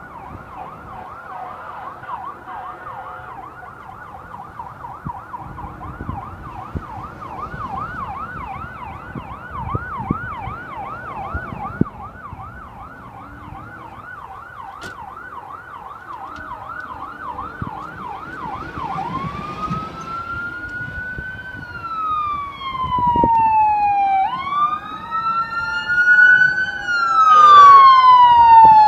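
Electronic emergency-vehicle sirens. A fast yelp warbles about two to three times a second, then about two-thirds of the way through it switches to a slow rising and falling wail. A second siren joins at a different pitch, and both grow louder near the end.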